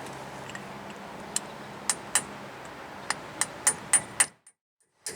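Sharp metal-on-metal taps, about eight irregularly spaced strikes, from a hammer tapping a tool on a seized brake caliper bleed screw that will not break free. The sound cuts out abruptly near the end.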